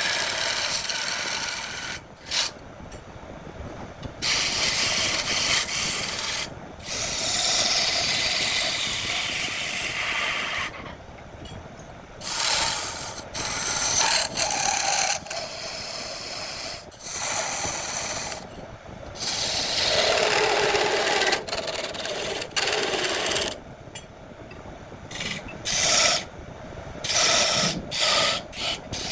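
A tool scraping against wood spinning on a lathe, a loud hissy rasping in bursts of a second to several seconds that start and stop abruptly.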